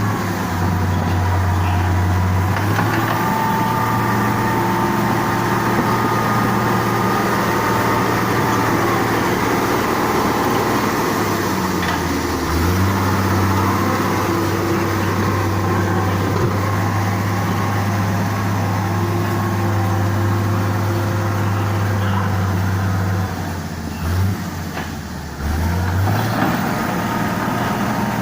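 Diesel engine of heavy road-repair machinery running steadily. Its pitch dips briefly about halfway through, and it dips twice and gets quieter for a couple of seconds near the end, as the load on it changes.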